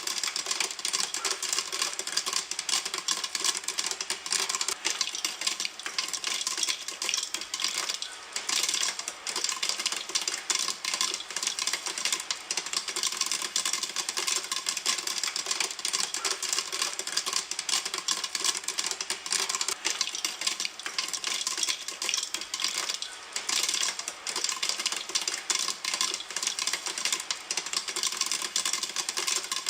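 Popcorn popping in a pan: a dense, fast crackle of pops.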